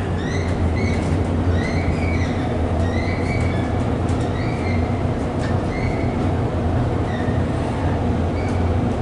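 Inclined elevator car running along its inclined track: a steady low hum with short high squeaks repeating roughly once a second.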